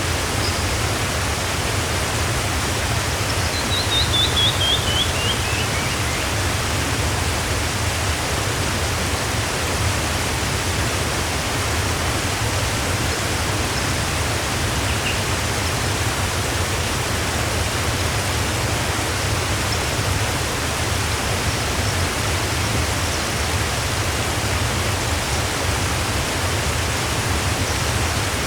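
Waterfall rushing steadily. A bird gives a quick run of about ten notes that falls in pitch a few seconds in, then a single short chirp about halfway, and a few faint high chirps near the end.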